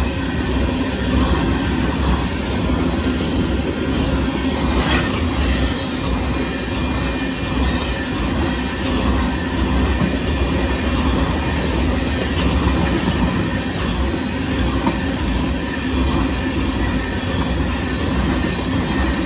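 Freight train of loaded gravel hopper cars rolling past: a steady rumble of steel wheels on the rails with clickety-clack over the joints, and one sharp click about five seconds in.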